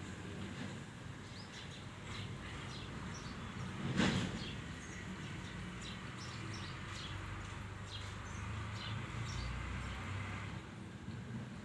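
Small birds chirping here and there over a steady low rumble, with one brief louder noise about four seconds in.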